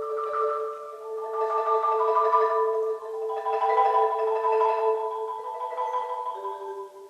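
Solo marimba playing long held notes and layered chords, sustained as continuous rolls. The bottom note holds steady and steps down about six seconds in.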